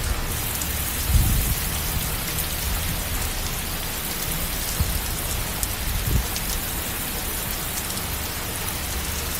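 Rain falling steadily, an even hiss, with a few brief low thumps about a second in and again near five and six seconds.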